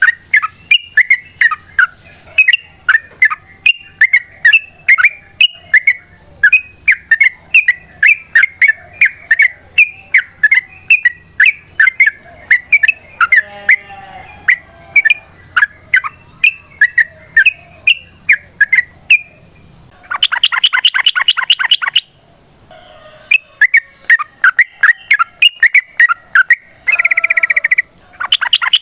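Yellow-vented bulbul (trucukan) singing: a long run of quick, repeated notes, about two or three a second. About twenty seconds in it breaks into fast chattering bursts with short pauses between.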